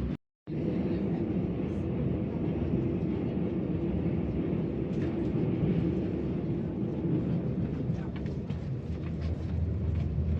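Passenger train running, heard from inside the carriage as a steady low rumble, with faint clicks in the second half. The sound cuts out for a moment right at the start.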